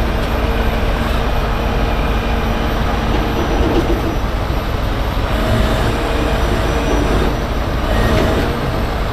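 Heavy wrecker's diesel engine and boom hydraulics running steadily under load as it lifts a 20-foot shipping container: a continuous rumble with a faint steady whine.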